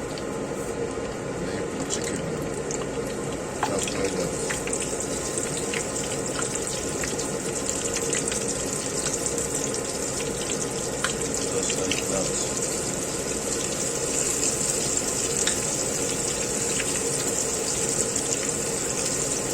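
Battered chicken frying in hot oil: a steady sizzle with scattered small pops and crackles, getting a little louder a few seconds in.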